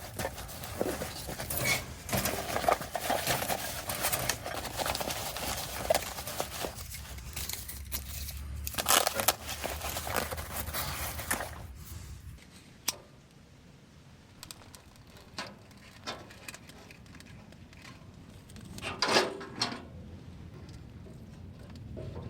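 Rustling, crinkling and crackling as a fire is laid and lit in a small wood stove, with many sharp clicks and snaps of kindling. It turns quieter about halfway through, leaving scattered clicks and a couple of short knocks.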